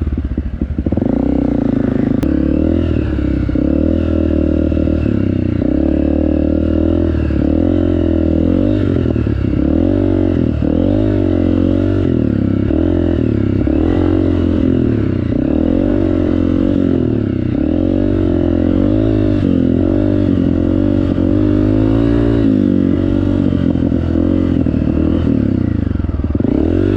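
Honda CRF 250 trail bike's single-cylinder four-stroke engine running under way, its pitch rising and falling every second or two as the throttle is opened and eased off.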